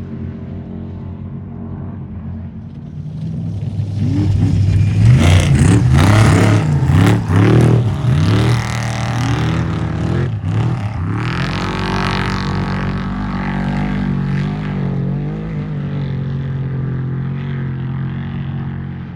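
Off-road race vehicle's engine at high revs, its pitch jumping up and down rapidly as it comes close, loudest about five to eight seconds in, then holding a steadier note and easing off near the end.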